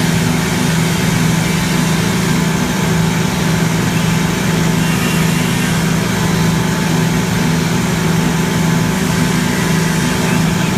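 Industrial paint line machinery running with a steady, loud hum and a few constant higher tones, unchanging throughout.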